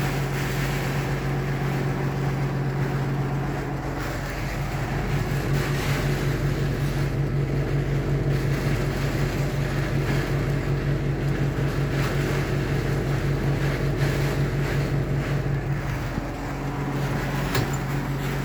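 An engine running steadily with a low, fast-pulsing hum, over the noise of wind and heavy rain.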